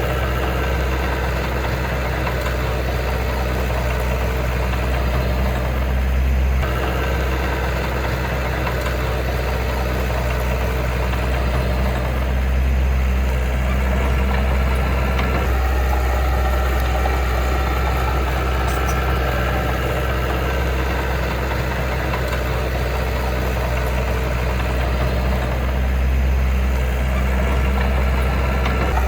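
Diesel engine of heavy earthmoving machinery running steadily, its note shifting slightly a few times.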